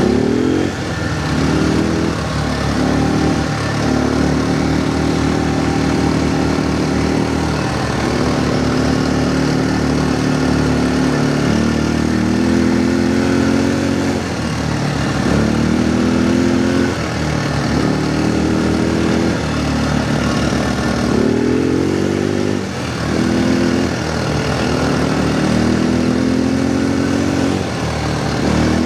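Quad bike engine running under way, its pitch climbing each time the throttle opens, holding while cruising, then easing off and climbing again several times.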